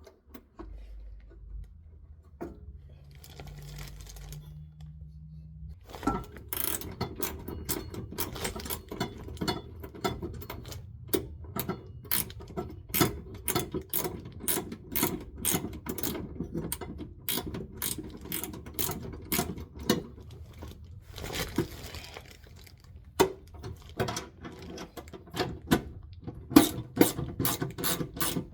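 A ratchet wrench clicking in a quick, regular series of strokes, starting about six seconds in after a quieter stretch and running on with brief breaks.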